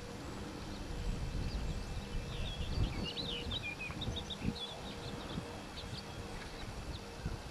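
Outdoor field ambience with a steady low rumble, and a small bird chirping a quick series of short, high notes for a couple of seconds in the middle.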